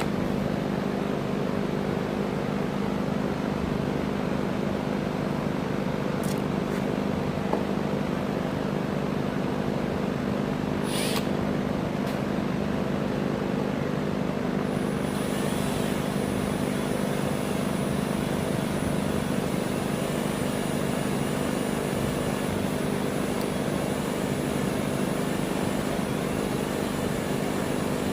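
Electric drill motor running at a steady speed, a constant hum, as it drills through steel.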